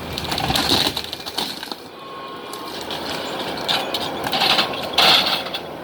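Mobile home demolition debris crunching and breaking in irregular bursts, with a louder spell near the end.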